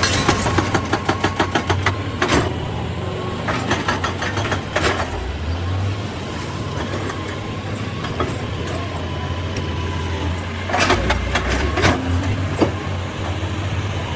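Excavator's diesel engine running steadily, with bursts of rapid clattering knocks from the machine at work.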